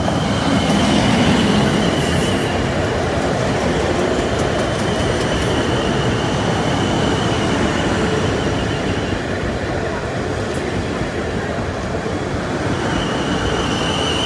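Class 450 Desiro electric multiple unit, two units coupled, passing close by over a level crossing: a steady loud rumble of wheels on rails. A high thin whine sounds at the start and again near the end.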